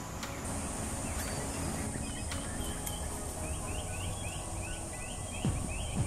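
A bird calling a rapid run of short, hooked notes, about three a second, starting about halfway through. A steady high-pitched drone and a low background rumble run underneath.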